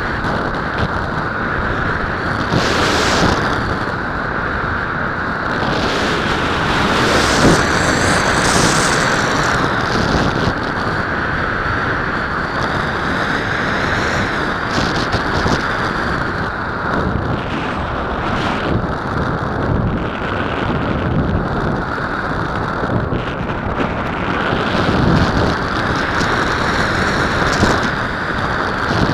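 Wind rushing over the onboard camera's microphone on an unpowered RC slope glider in flight, loud and continuous. Faint high whistles rise and fall a few times in the first half.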